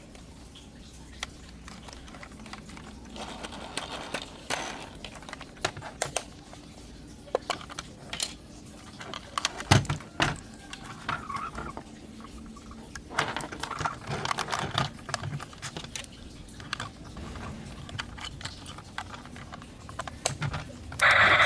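Hands handling toys and their packaging: scattered clicks, taps and light clatter of plastic, with short stretches of rustling a few times.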